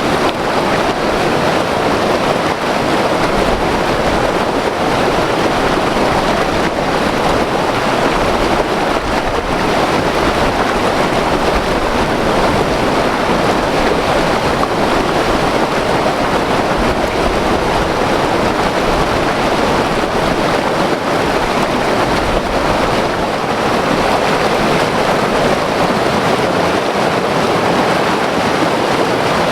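White water river rushing over rapids: a loud, steady roar of churning water that holds even throughout.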